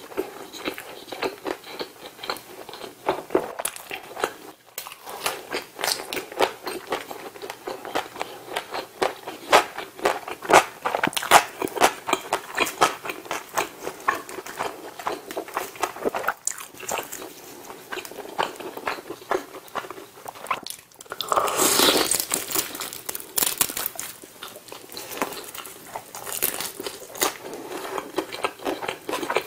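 Close-miked eating of fried chicken: crunching bites and wet chewing with many small mouth clicks. A louder, denser stretch of crunching comes about two-thirds of the way through.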